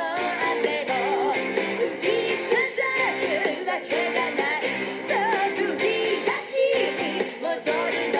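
Rock song with an electric guitar played along to it, its lead line bending and wavering in pitch over the full band.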